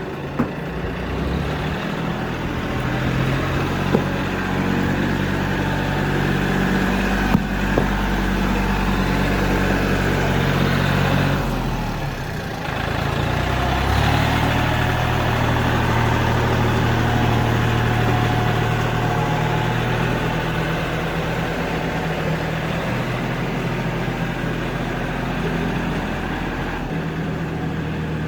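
John Deere tractor engine running steadily, its speed dipping briefly about twelve seconds in and then settling at a slightly higher pitch. A few sharp knocks come in the first eight seconds.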